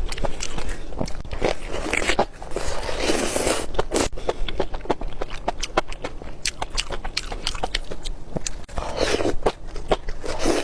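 Close-miked eating of spicy enoki mushrooms: a busy run of short wet bites, crunches and crackles as they are chewed, with a longer rushing stretch about three seconds in and again near the end.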